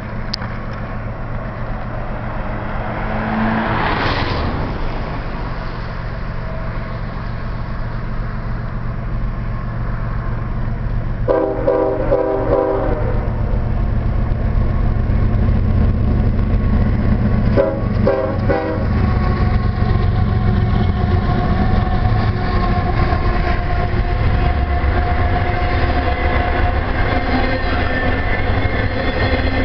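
Canadian Pacific freight train's GE diesel locomotives approaching with a steady low rumble that builds up, the lead unit sounding its horn in two blasts, about 11 and 17 seconds in. Near the end the rumble is joined by wheel and car noise as the double-stacked container cars roll past.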